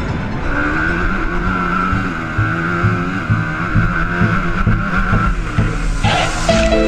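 Four-stroke motocross bike engine running under riding load, its pitch rising and falling as the throttle is worked. Music comes back in near the end.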